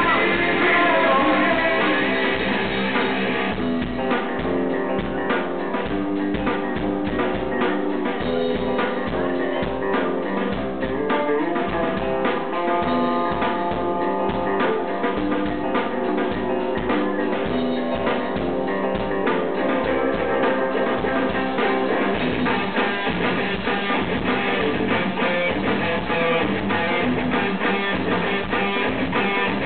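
A rock band playing live: electric guitars and a drum kit with a steady beat, recorded from the audience.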